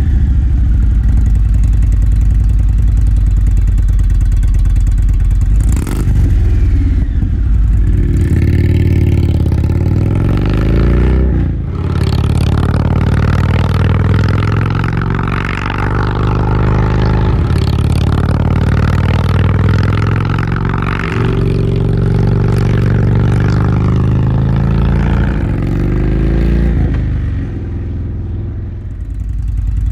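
Indian motorcycle V-twin running through a Stage 1 exhaust with fishtail tips, a deep, throaty exhaust note. The engine is revved up and back down several times, its pitch rising and falling between steady stretches.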